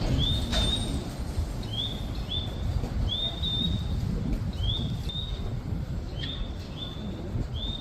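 Recorded bird-chirp guidance sound of a Japanese station platform, short rising chirps in pairs repeating about every one and a half seconds with identical shape, over a steady low rumble.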